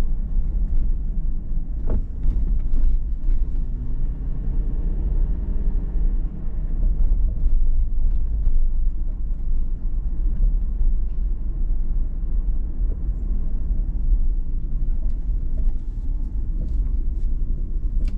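Steady low rumble of a 2019 Toyota 4Runner TRD Pro being driven: engine and road noise, with a brief faint click about two seconds in.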